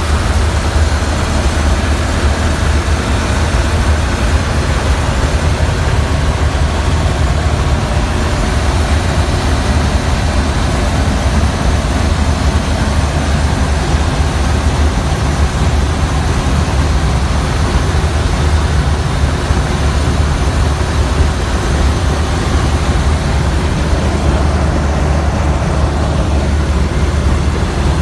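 1929 Ford Model A truck's four-cylinder engine, fitted with a Simmons Super Power head and twin Zenith updraft carburettors, running steadily while driving, with a strong low drone.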